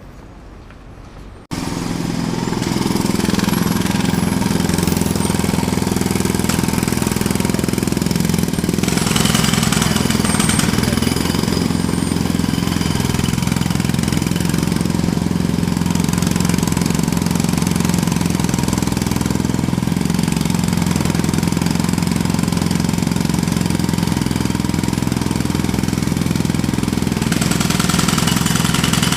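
Jackhammer cuts in abruptly about a second and a half in and then hammers steadily and loudly, a rapid, even rattle over a low, steady drone.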